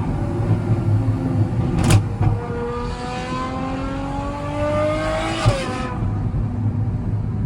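Ferrari 812 Superfast's straight-piped 6.5-litre V12 under load. A sharp crack comes about two seconds in, then the engine note climbs steadily for about three seconds and drops off suddenly.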